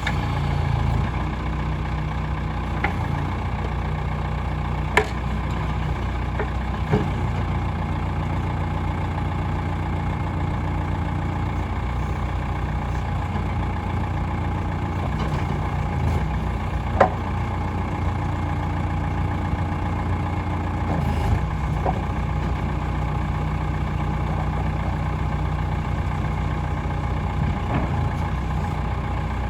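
1985 Case 580G loader backhoe engine idling steadily, with a few sharp clanks, one about five seconds in, one near seven seconds, and the loudest past the middle.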